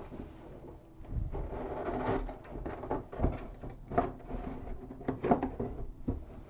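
Packaging rustling, then several sharp knocks and clicks as faucet parts are taken out of the box and set down.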